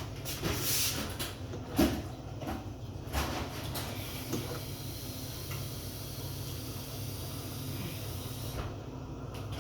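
A few knocks and bumps, like cupboards or doors being handled out of sight, over a steady low electrical hum. The loudest knock comes about two seconds in, and the rest of the stretch is just the hum and light hiss.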